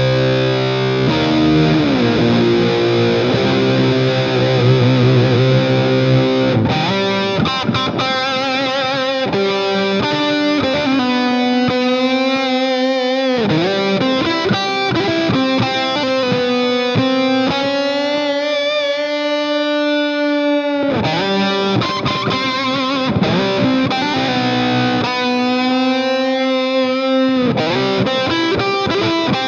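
Rock music led by a distorted electric guitar: heavy chords for the first several seconds, then long held lead notes with a wavering vibrato.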